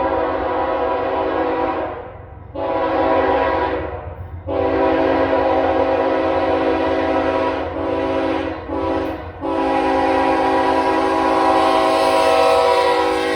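Norfolk Southern diesel locomotive's multi-chime air horn sounding a chord in a series of blasts. A blast ends about two seconds in, a second follows after a short gap, then a long blast is broken by two brief gaps and is held again to the end. A low rumble of the train runs underneath.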